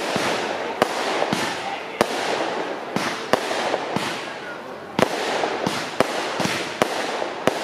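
Fireworks display: aerial shells bursting in a string of sharp bangs, about one or two a second at irregular spacing, over a continuous crackling haze.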